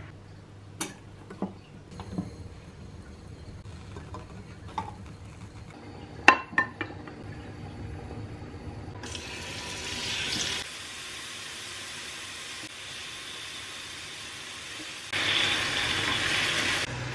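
A series of light clicks and knocks, the sharpest about six seconds in, then water running in two short spells, the second louder.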